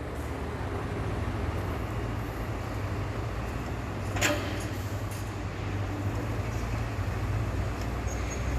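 Hyundai four-axle dump truck's diesel engine running steadily with a low, even rumble, and a single sharp metallic knock about four seconds in.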